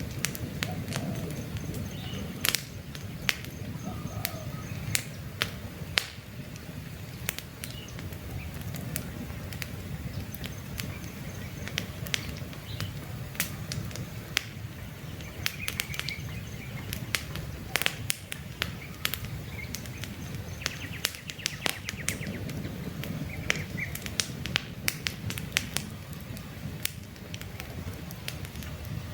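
Wood campfire crackling, with frequent irregular sharp pops and snaps over a steady low rush of burning. Faint bird chirps come through now and then.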